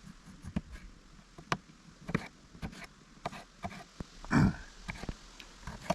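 Scattered light clicks and knocks of handling food and utensils during camp breakfast preparation, with one louder knock about four and a half seconds in.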